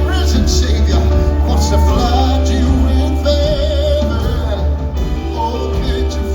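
Live gospel band music with a sung, wavering vocal line over a heavy, steady bass.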